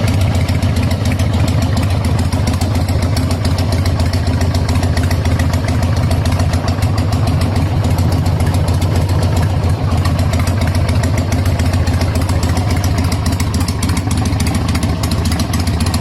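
Harley-Davidson Sportster V-twin motorcycle engine idling steadily through its exhaust, a deep, even, fast-pulsing rumble with no revving.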